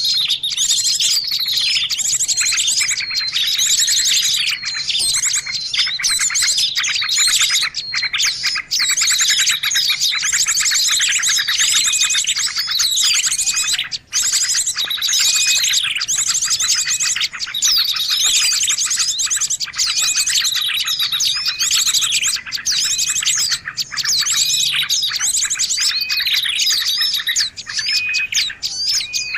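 A dense, unbroken chorus of many small birds chirping, trilling and twittering at once, high-pitched, with fast repeated notes overlapping one another. It is a noisy bird-lure (pikat) recording, meant to draw in birds of all kinds.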